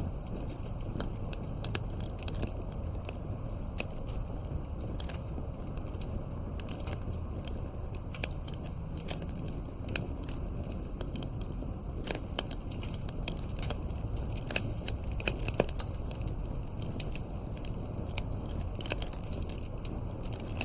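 Campfire burning: wood crackling and popping at irregular intervals over a steady low rush of flame, with a few sharper pops about twelve and fifteen seconds in.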